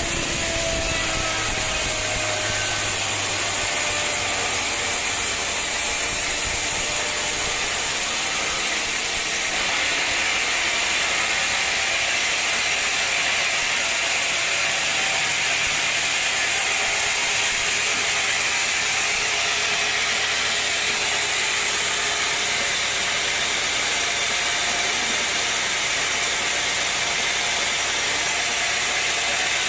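Sawmill machinery running with a steady mechanical rattle.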